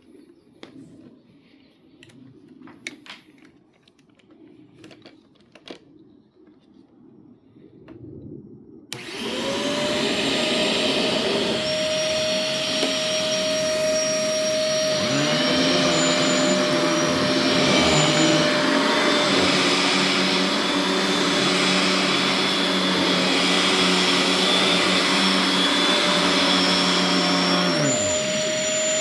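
Simplicity Synchrony Premium tandem upright vacuum switched on about nine seconds in, after a few quiet handling clicks; the motor spins up and runs at a steady high whine. About six seconds later a second, lower hum joins the motor noise, and it drops away shortly before the end.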